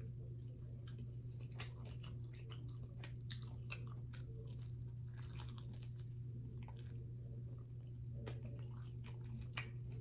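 Close-miked chewing and biting of crispy fried food, with frequent small crunches and crackles in an irregular rhythm. A steady low hum runs underneath.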